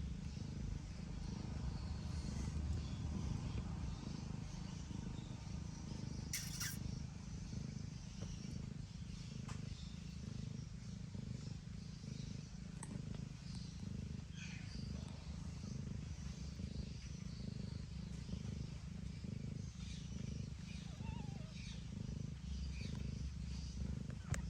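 Domestic cat purring steadily as kittens nurse, a continuous low rumble. Faint small clicks sit above it, with one sharper click about six seconds in.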